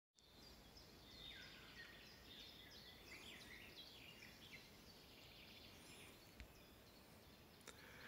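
Faint birdsong: a run of quick falling chirps over a low background hiss, with one small click about six seconds in.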